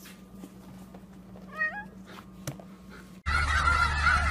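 A cat gives one short wavering meow about a second and a half in, with a brief knock a second later. Then, after an abrupt cut, a flock of snow geese is honking loudly, many calls overlapping over a low rumble.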